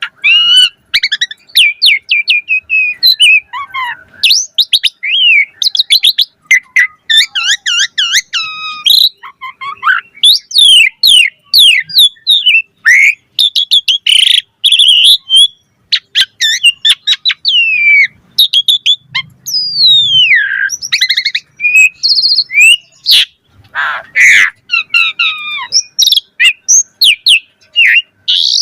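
Asian pied starling singing in full, vigorous song: a long, varied run of loud whistles, rising and falling sweeps, chirps and rapid trills with many short breaks, packed with mimicked phrases.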